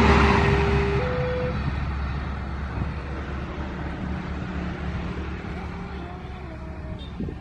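A passing train's rumble fading away as it moves off, with a steady two-note tone alternating about once a second until about a second and a half in. A lower, quieter rumble follows.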